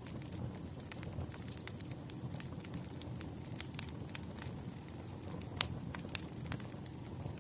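Wood fire crackling: a low steady rumble of burning logs with frequent irregular sharp pops, the loudest about five and a half seconds in.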